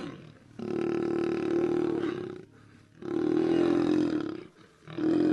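Lion roaring: long deep calls, each lasting one and a half to two seconds, with short pauses between, three in all, the last starting near the end.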